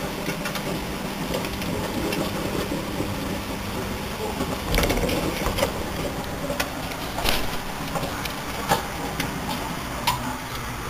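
Microwave oven running with a steady electrical hum, with sharp irregular cracks and pops of arcing from a burning DVD player inside it, about every second from halfway through.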